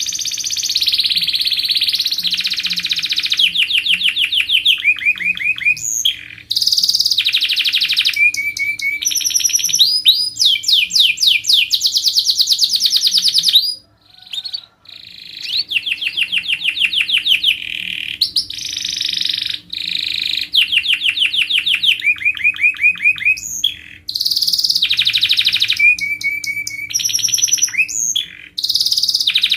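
Domestic canary in full song, running long rolling trills of rapid repeated notes and brief whistled phrases. The song breaks off for about a second around the middle. A faint steady low hum runs underneath.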